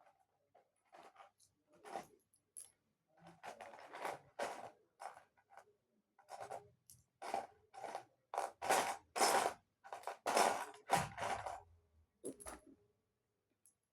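Lego plastic pieces being handled and rummaged, a series of quick scraping strokes, loudest in the middle.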